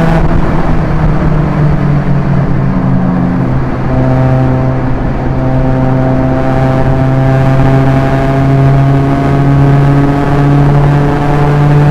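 2013 Proton Inspira 1.8 manual's four-cylinder MIVEC engine running hard at highway speed, a steady drone over tyre and wind noise. Its pitch shifts about four seconds in, then climbs slowly as the car gathers speed.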